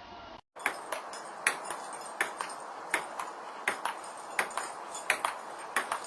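Irregular sharp metallic clicks and taps, two or three a second and uneven in loudness, over a steady hiss, starting about half a second in.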